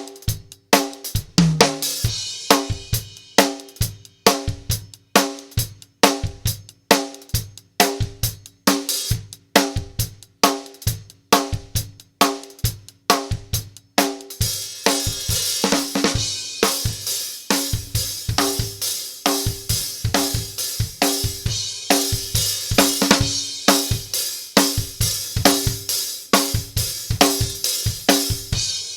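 Isolated recorded drum kit track playing a steady beat of kick, snare and hi-hat, heard through a tube opto compressor for a demo. About halfway through, cymbals come in and fill the top end.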